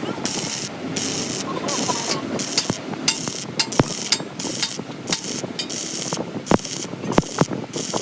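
Welding arc crackling in short on-off bursts, roughly one every half second to a second, with sharp clicks between: stitch welding across a wide gap in thin sheet metal.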